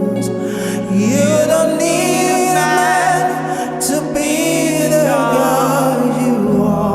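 Contemporary gospel worship music: a singing voice comes in about a second in with long, gliding, wavering held notes over steady sustained chords.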